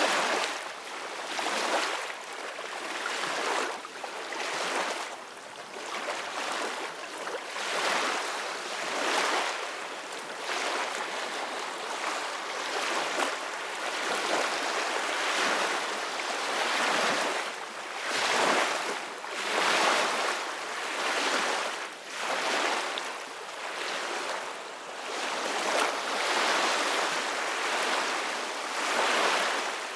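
Ocean waves breaking and washing in, a hissing surf that swells and falls every two to three seconds.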